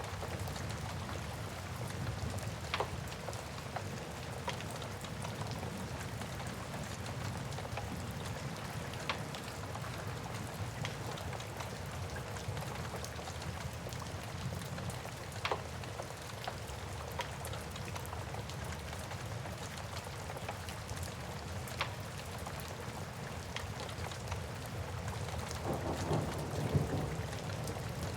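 Steady rain with occasional sharp crackles from a wood fire. A low rumble of thunder builds near the end.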